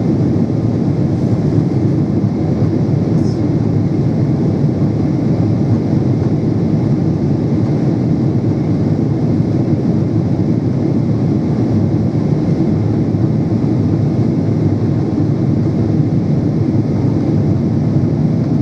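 Steady, loud rumble of a Boeing 777-300's engines and rushing air, heard inside the passenger cabin in flight.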